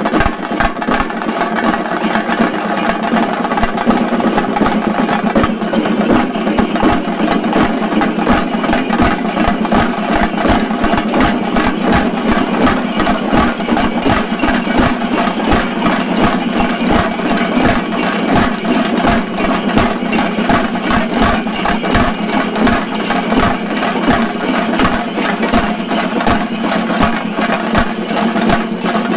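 Shinkari melam: a troupe of chenda drums beaten with sticks in a fast, loud, unbroken rhythm.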